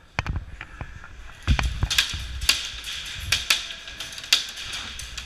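Airsoft guns firing in irregular single shots and short strings, heard as sharp cracks and clicks, with a few low thumps among them.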